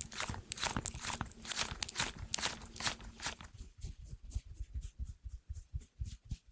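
Close-miked ASMR trigger sounds: a quick, irregular run of crisp crackling clicks, which about halfway through gives way to softer, duller taps with light clicks among them.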